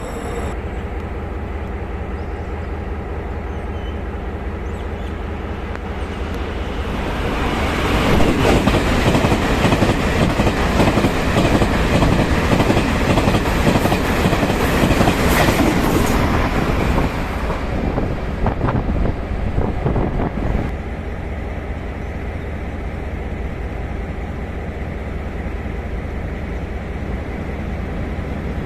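A train passing close by: wheels on rail build to a loud rush with clickety-clack from about seven seconds in, stay loud for about ten seconds, then die away.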